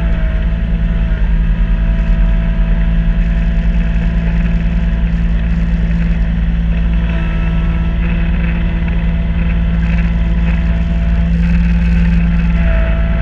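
Kubota B2650 compact tractor's three-cylinder diesel engine running steadily, driving a front-mounted B2782 snow blower, with a higher whine over the engine's drone.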